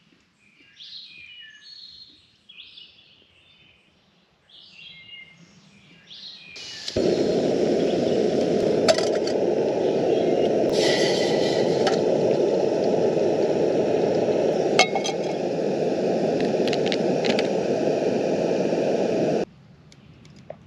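Birds chirping for the first few seconds. About seven seconds in, a loud, steady rushing noise with a few sharp clicks starts abruptly; it cuts off suddenly near the end.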